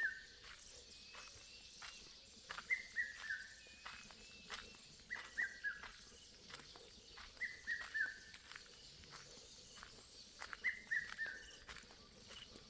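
Red-chested cuckoo calling its three-note 'piet-my-vrou' phrase, each group of whistled notes falling in pitch, repeated about every two and a half seconds. Faint clicks and a few softer high bird notes underneath.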